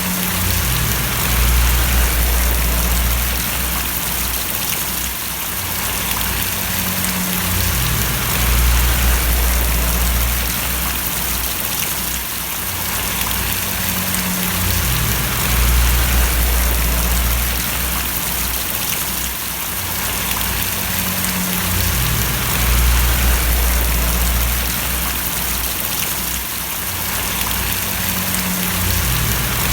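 Steady rain falling and splashing as a constant hiss, with a low hum underneath that swells and eases about every seven seconds.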